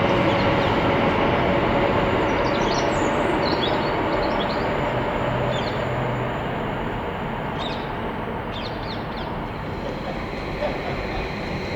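London Overground Class 378 electric multiple unit running past on the line, its rumble slowly fading, with a few brief high chirps over it.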